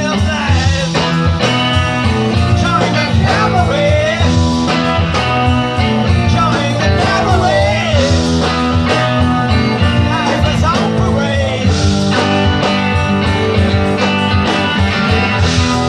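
Rock band playing live, guitar to the fore, over steady bass notes. The melody line slides and bends in pitch.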